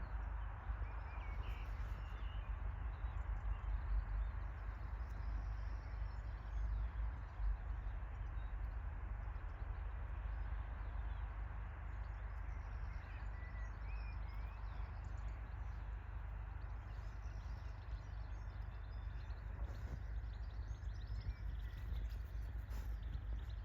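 Steady outdoor rumble of wind on the microphone, with a few brief, faint bird chirps.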